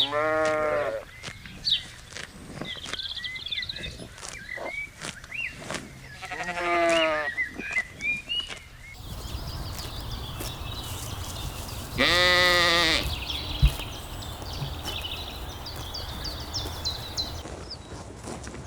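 Sheep bleating three times, each a quavering call about a second long, with faint high chirps in between.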